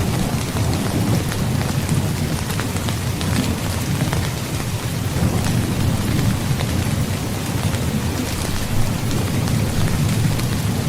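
Heavy rain falling steadily, with many fine drop ticks, over a continuous low rolling rumble of thunder.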